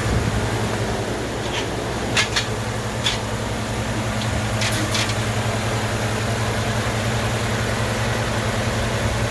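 Truck engine idling steadily just after a camshaft swap, heard up close to the engine, with several sharp clicks between about one and a half and five seconds in.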